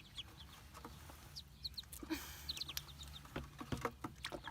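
Newly hatched Muscovy ducklings peeping: many short, high peeps that slide downward, coming irregularly throughout, with a brief hiss about two seconds in.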